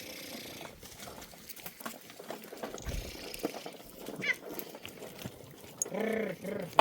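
Livestock bleating: two short bleats in quick succession near the end, over faint rustling and scattered small knocks.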